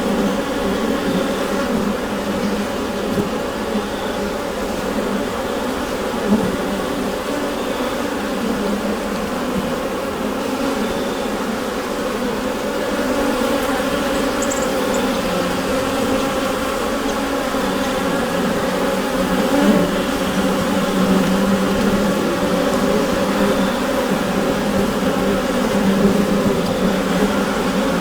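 Dense, steady hum of a mass of bees inside a beehive, many wingbeats blending into one low drone.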